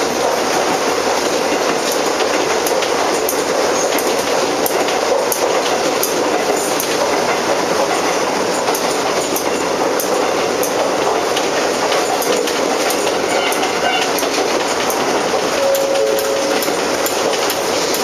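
Konan Railway 7000 series (ex-Tokyu 7000) electric train running at speed, heard from inside the rear cab: a steady rumble of wheels on rail with frequent clicks from rail joints.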